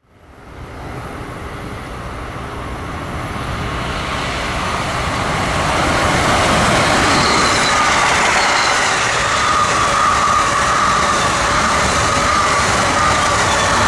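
A passenger train approaching and running past at speed: the rail and wheel noise builds over the first six seconds to a steady loud rush, with a faint whine drifting slowly down in pitch.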